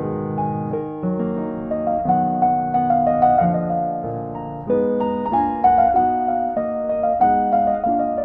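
Soft solo piano music, a slow melody of single notes and chords, each struck and left to fade.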